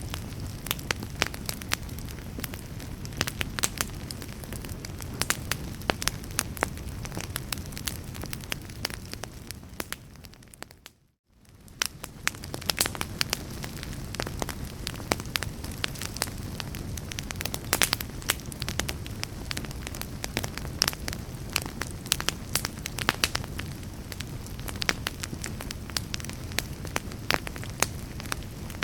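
Fireplace fire crackling, with dense irregular pops and snaps over a steady low rumble. About eleven seconds in it fades out to near silence for a moment, then fades back in.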